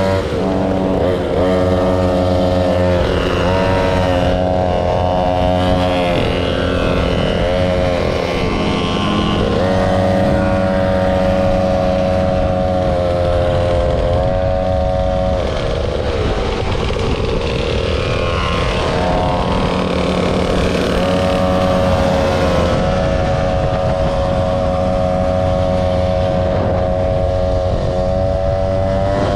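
Motor scooter engine running under way, its pitch dipping and climbing again several times as the throttle is eased and reopened, with long stretches at a steady pitch.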